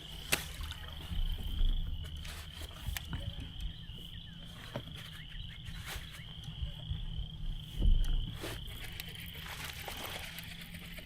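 Steady high-pitched insect drone over a low rumble, with scattered light clicks and knocks and two louder low thumps, about two seconds and eight seconds in.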